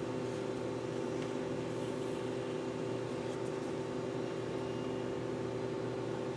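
Steady background hum made of several constant low tones, with a few faint small clicks.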